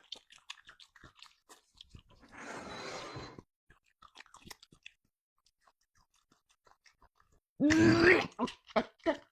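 A person chewing steamed cowhide close to the microphone, with small wet crunches and clicks, a breathy blow of air about two seconds in, and a loud grunt near the end.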